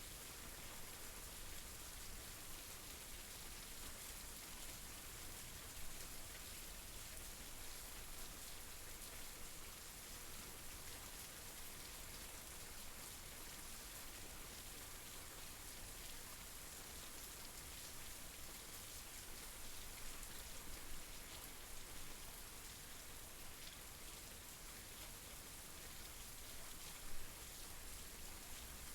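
Steady rain falling, with individual drops pattering on a surface and a few louder drops standing out now and then.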